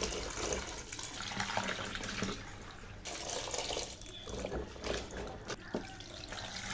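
Water running from a kitchen tap into a sink, splashing as something is rinsed under it, dipping briefly a couple of times, with a few small clicks.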